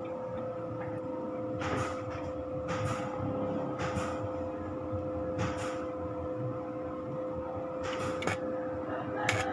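Electric foam-shredding machine running with a steady hum. About seven brief rushing noises break in at irregular intervals.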